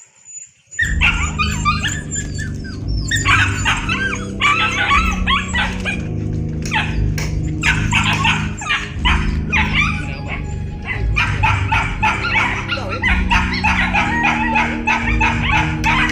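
Dogs barking repeatedly over background music with steady low notes, starting about a second in.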